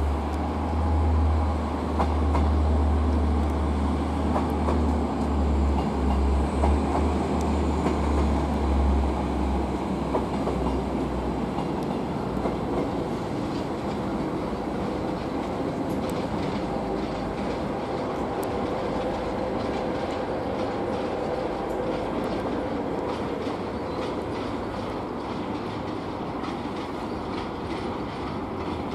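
Regional train moving through the station: a deep rumble for the first dozen seconds that then fades, leaving a steady running noise with light clicks of wheels over rail joints.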